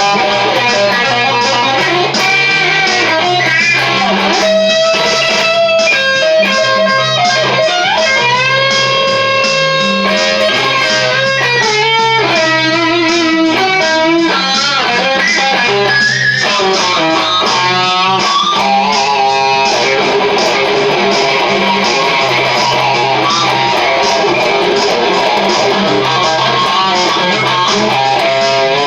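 Charvel DK24 HSS electric guitar playing an improvised lead with string bends, over a steady bass line and drum beat from a DigiTech Trio backing pedal.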